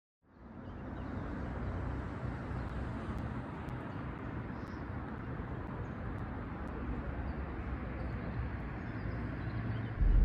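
Steady outdoor ambient noise: an even low rumble, fading in at the very start, with a few faint high ticks.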